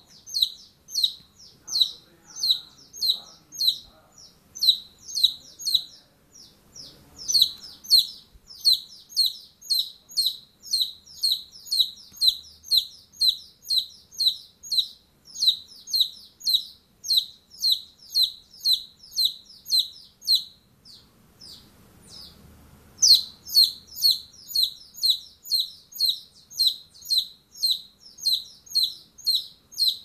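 A bird chirping over and over, about two short, high, downward-sliding chirps a second, with two short breaks.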